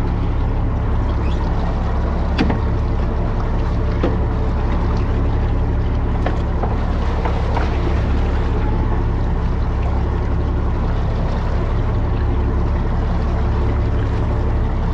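Fishing boat's engine running steadily, a low drone, with a couple of sharp clicks about two and a half and four seconds in.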